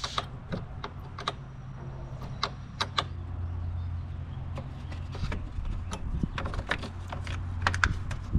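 Scattered metallic clicks and light knocks of a wrench and battery terminal as the truck's battery is reconnected, over a steady low hum.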